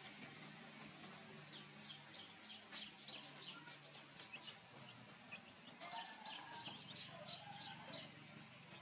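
A bird chirping in two runs of short, high notes, about three a second, the second run starting about six seconds in, over faint outdoor background.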